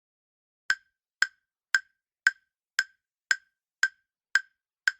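Countdown timer ticks: a sound effect of short, sharp, evenly spaced ticks, about two a second, starting just under a second in.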